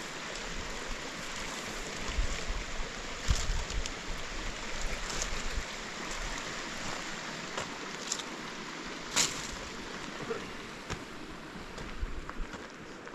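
Steady outdoor rushing noise with scattered clicks and knocks, one sharper knock about two-thirds of the way through.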